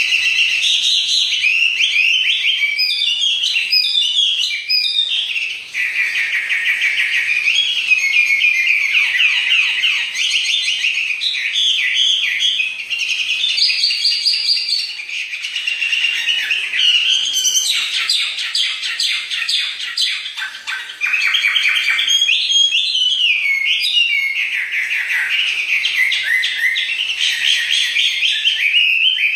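Prized caged songbird singing loudly and without pause: a long, varied song of whistled phrases and quick trills, with a fast run of rapid chattering notes about eighteen seconds in.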